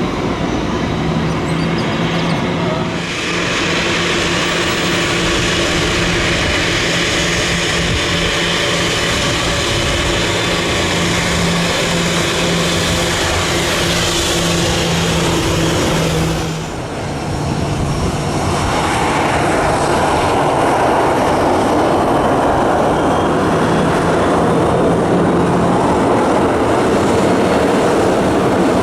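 Aircraft engines running at high power: a loud, steady rushing noise with a low hum, dipping briefly twice.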